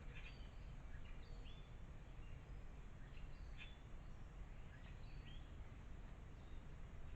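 Faint short bird chirps, about eight, scattered irregularly over a steady low background rumble.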